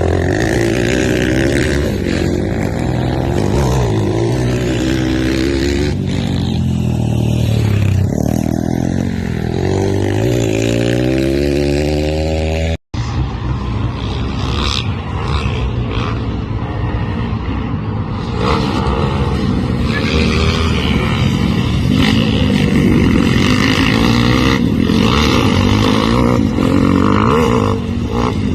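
Pit bike engine being ridden hard, revving up and down, its pitch rising and falling again and again. The sound drops out for an instant about halfway through.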